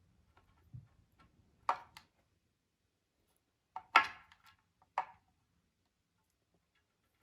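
Sharp clacks of small hard objects being handled, set down or knocked together: five or so in all, the loudest about four seconds in, with faint ticking between.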